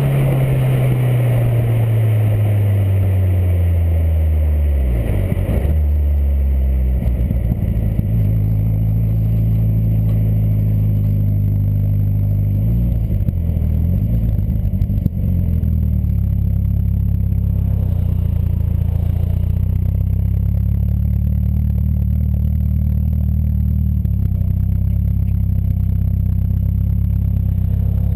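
Peugeot 205 1.9 engine through an Inoxcar stainless-steel aftermarket exhaust, its revs falling smoothly over the first few seconds and then settling into a steady idle, with a brief wobble about halfway through.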